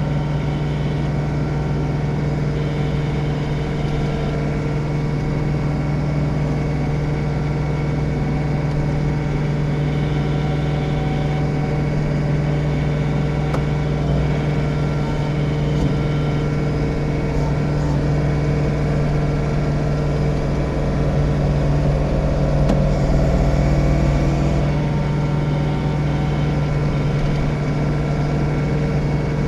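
John Deere 3046R tractor's diesel engine running steadily at working speed while snow blowing, a constant hum that swells slightly a little past the middle.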